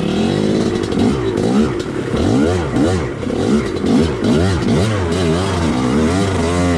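Two-stroke dirt bike engine revved hard and let off over and over, the revs rising and falling sharply many times in quick succession as the throttle is worked.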